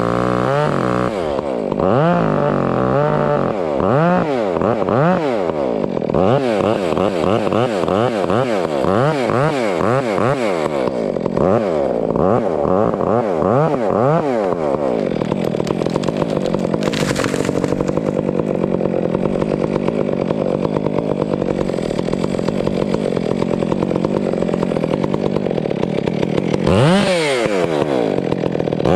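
Chainsaw bucking up a wind-uprooted pine: the engine revs up and down again and again for about half the time, then holds a steady high speed for around ten seconds, with one sharp rev near the end.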